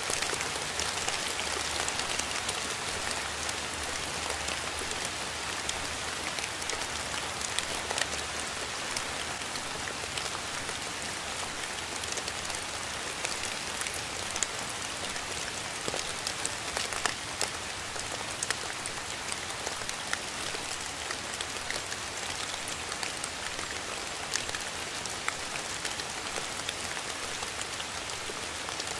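Steady rain falling, a dense even hiss with many small, sharp drop hits scattered through it.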